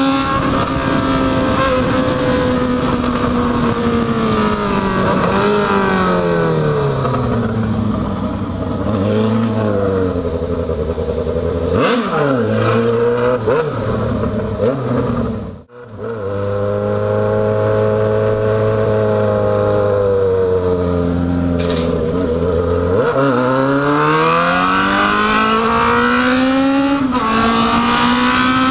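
Yamaha XJ6 motorcycle's inline-four engine heard from the rider's seat: the revs fall as it slows, with a few short rev blips, and the sound drops out for a moment about halfway. The engine then runs steadily before the revs climb again as it accelerates near the end.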